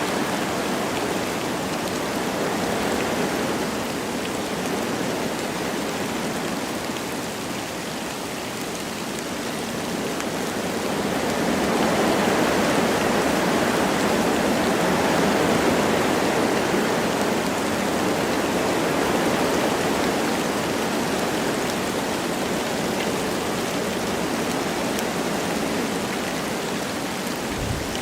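Wind blowing through forest trees with light rain falling, a steady rushing noise that swells about a third of the way in and eases off again.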